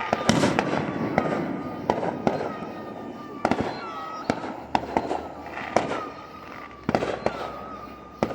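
Fireworks going off: about a dozen sharp, irregularly spaced bangs over a rumbling background, with a thin steady high whine and a few short falling whistles underneath.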